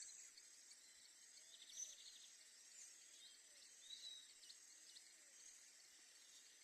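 Faint dawn bird calls: scattered short chirps and one brief rapid trill about two seconds in, over a steady high insect hum.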